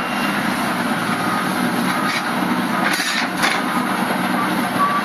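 Heavy demolition excavator at work on a concrete bridge: steady engine noise under dense crackling and crunching of breaking concrete, with two sharper cracks about three seconds in.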